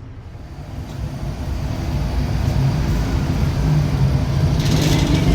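A small vehicle engine, most likely a motorcycle's, running with a steady low hum. It grows louder over the first two seconds, then holds steady.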